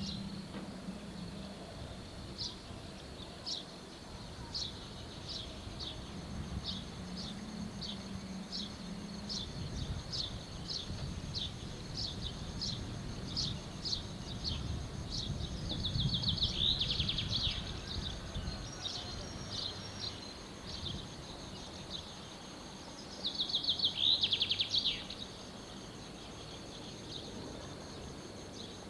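A bird repeating a short, high, falling chirp about twice a second. It breaks off twice into louder buzzy trills, the second near the end being the loudest. A steady low background noise runs underneath.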